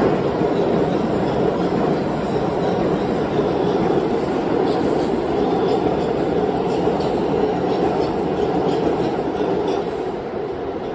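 New York City Subway R142/R142A train running along the track: a steady rumble with faint, light clicks of the wheels over the rails, easing slightly in level near the end.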